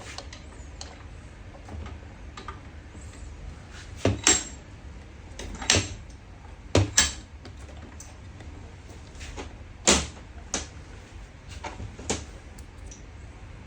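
Irregular sharp knocks and clicks, about nine in all and most of them in the middle and near the end, from parts and tools being handled during fuel pump repair work, over a low steady hum.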